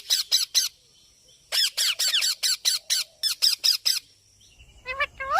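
A two-month-old Alexandrine parakeet chick calling in quick runs of short, high calls, about four or five a second, in two bursts about a second apart. Near the end come a few lower calls that rise in pitch.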